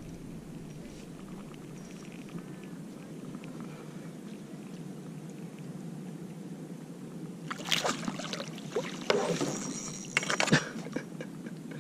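Water splashing and sloshing beside a kayak. A steady low background of wind and water runs first. About seven and a half seconds in, a few seconds of louder splashing begin, with a single sharp knock near the end.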